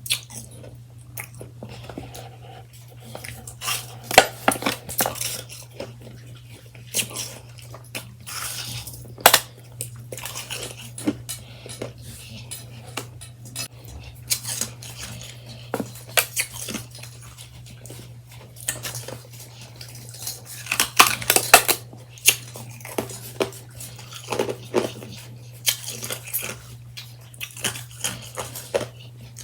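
Freshly shaved ice being eaten: irregular soft crunches and bites, mixed with clinks and scrapes of a utensil against its dish.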